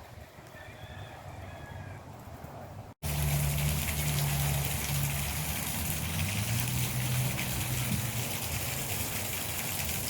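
Steady rush of running water with a low hum beneath it, starting abruptly about three seconds in; before that, faint chirps over a quiet background.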